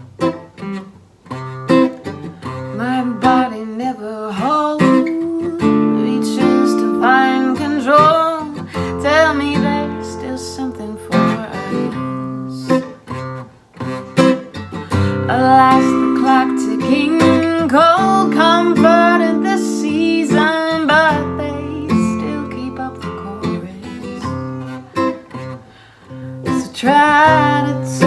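Acoustic guitar strummed and picked in an instrumental break of a song, with a melody line that slides in pitch over the chords.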